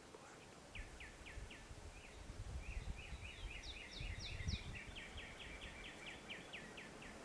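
Birds calling: repeated quick downslurred notes, several a second, with a fast chattering run in the middle and a few higher notes, over a low gusty rumble.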